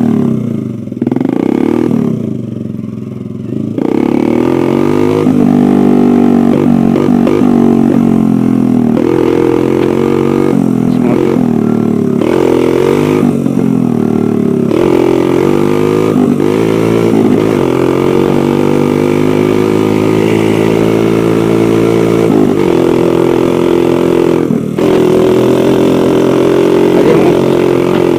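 Dirt bike engine under way, its pitch rising and falling with the throttle. It drops back and goes quieter for a few seconds near the start, then opens up again and runs loud.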